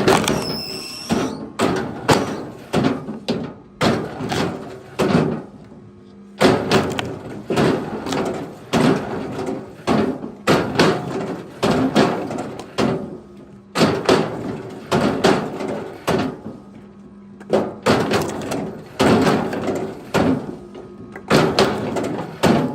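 A run of heavy knocks and thuds, about one or two a second, pausing briefly twice, over a steady low hum.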